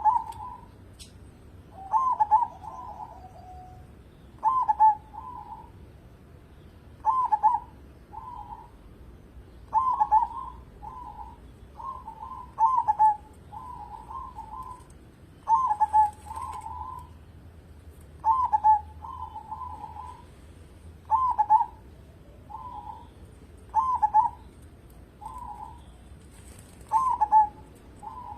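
Zebra dove (perkutut) singing its cooing song over and over. Each phrase is a loud first note followed by two or three softer, quick coos, repeated about every two and a half to three seconds.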